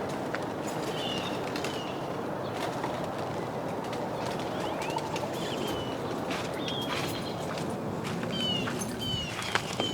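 Small birds chirping: short, high, slightly downward-slurred calls scattered through, several in quick succession near the end, over a steady background hiss.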